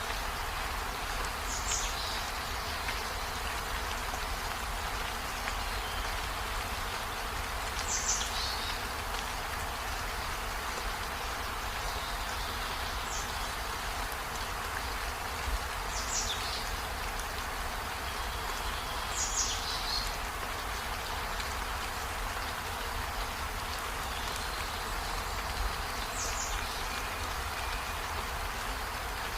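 Steady rain falling. About six times, a short high call that falls in pitch sounds over it, a few seconds apart.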